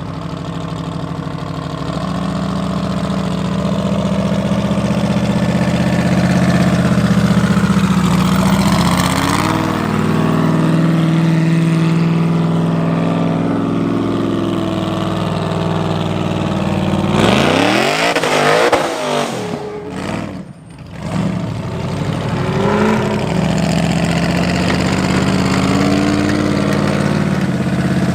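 Supercharged LS V8 engine of an Ultra4 race car running steadily. About two-thirds of the way through there is a quick swell and fall in pitch, then a brief dip in level before the steady running resumes.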